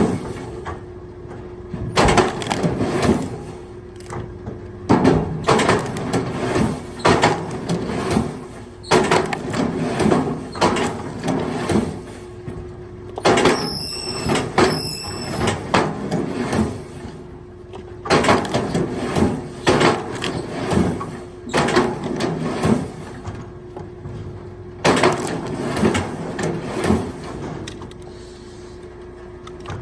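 Firewood clattering and cracking in repeated spells of a second or two, over a steady motor hum.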